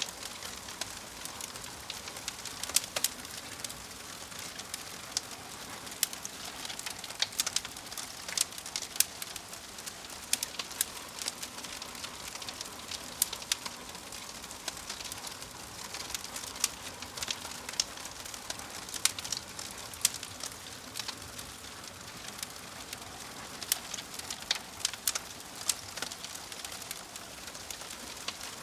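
Wood fire burning in a fireplace: irregular sharp snaps and pops of crackling logs, several a second at times, over a steady soft hiss.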